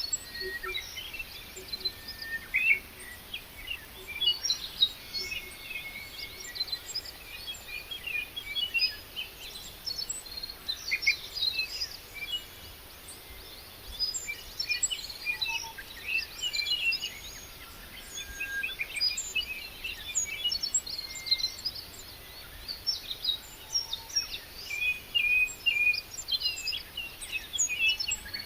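Many birds chirping and singing at once, a dense, continuous chorus of short high calls and trills.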